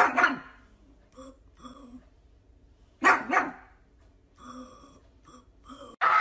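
Dog barking: two loud double barks about three seconds apart, with softer whimpering calls in between.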